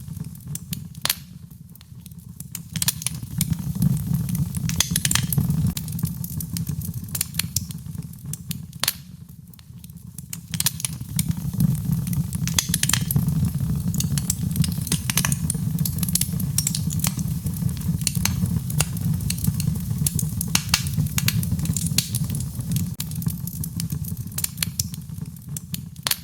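Wood fire burning in a fireplace: a steady low rumble of flames that swells and eases, with frequent sharp crackles and pops of burning logs, sometimes several in quick succession.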